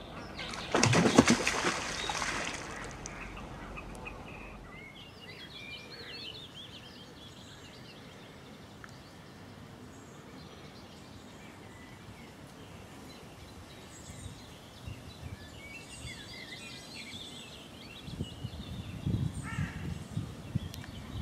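Small birds chirping and warbling over a quiet outdoor background, after a loud noisy burst about a second in. Low rumbling buffets come in near the end.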